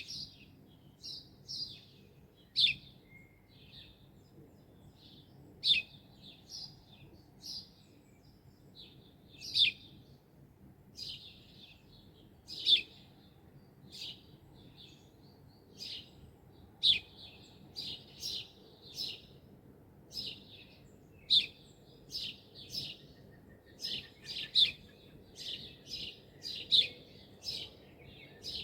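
Small birds chirping and twittering: short, high chirps repeated every second or so, some much louder than others.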